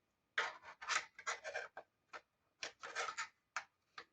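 Irregular clicks and clatters from a child handling the parts of a busy board: toy phone, dials and spinners knocked and turned, some clicks coming in quick little clusters.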